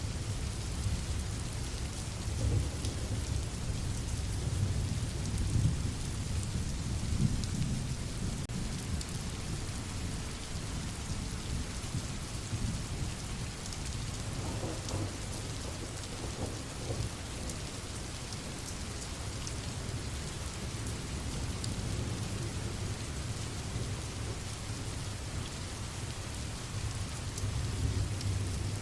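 Steady rain falling, with scattered drop ticks over a continuous hiss. A low rumble of thunder rolls through the first several seconds and swells again near the end.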